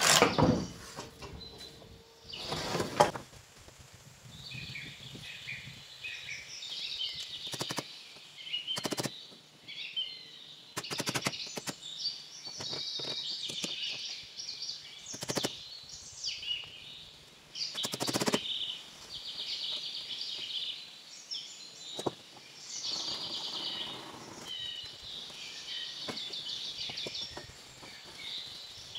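Birds chirping and singing continuously, with several sharp knocks scattered through.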